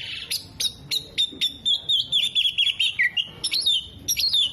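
Oriental magpie-robin (kacer) singing a rapid, varied song: sharp high chirps, a fast wavering trill through the middle, and quick up-and-down whistled swoops near the end.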